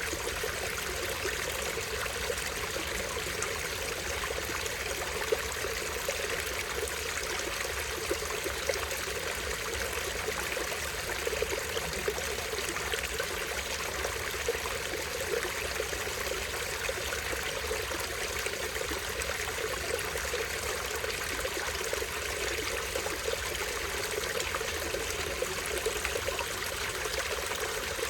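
A small stream running over a tiny waterfall, a steady, unbroken trickling and splashing of water.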